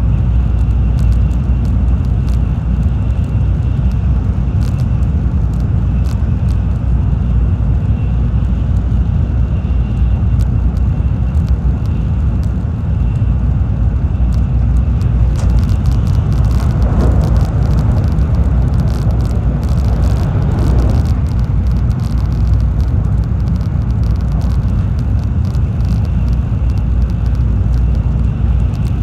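Cabin noise of a Tokaido Shinkansen train running at speed: a steady low rumble. A brighter rushing sound swells for several seconds a little past the middle.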